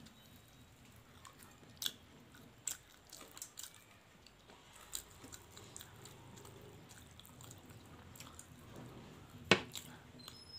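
Close-miked chewing and mouth sounds of people eating fried bora fritters by hand: scattered short wet clicks and smacks, with one louder click about nine and a half seconds in.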